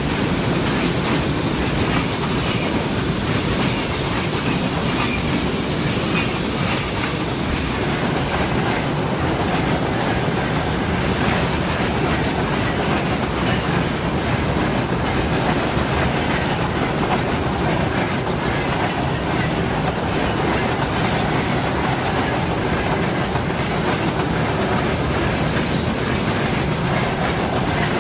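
Long freight train rolling steadily past, its wagon wheels clacking over the rail joints.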